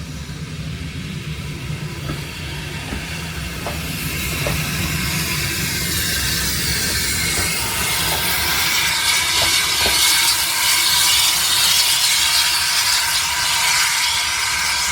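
Steam train hauled by a saddle tank locomotive running along the line: a steady low rumble with a few light knocks. A hiss builds from about four seconds in and keeps growing louder.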